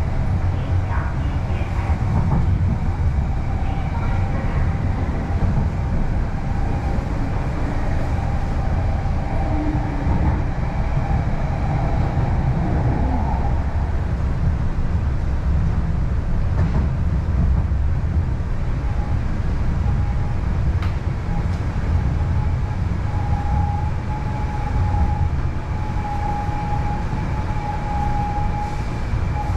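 MTR East Rail line R-Train electric multiple unit running along the line: a steady low rumble of the train on the track, with a clear steady tone coming in during the last third.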